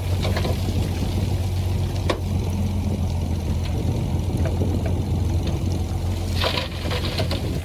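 Heavy-equipment diesel engine running steadily with a deep hum, with scattered clanks and a short burst of higher-pitched noise about six and a half seconds in.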